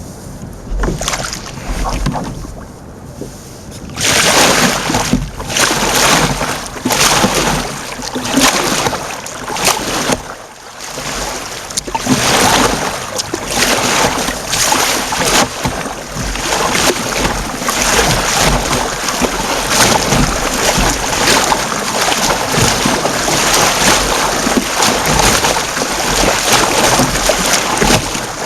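Kayak paddle strokes splashing in sea water, in repeated surges, with wind rushing on the microphone. It is quieter for the first few seconds, then louder.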